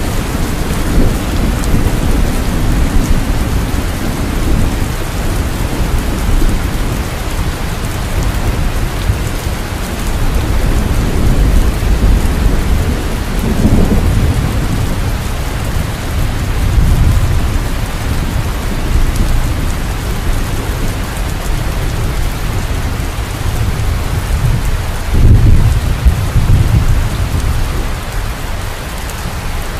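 Steady heavy rain with rolling thunder. The low rumbles swell a little before the middle, again shortly after, and most strongly toward the end.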